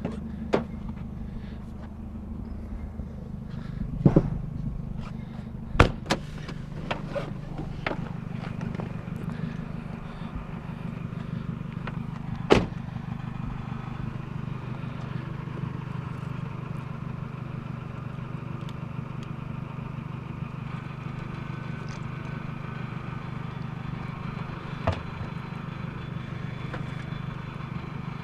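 Car engine running steadily, with a few sharp knocks or clicks scattered through.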